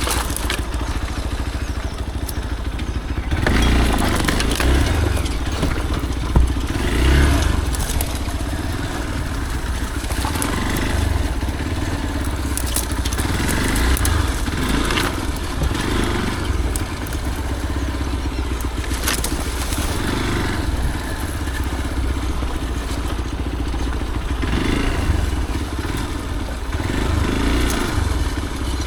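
A motorcycle ridden over a rough dirt trail: the engine runs on with a steady low rumble that swells every few seconds, mixed with crunching and clattering from the tyres over stones and gravel.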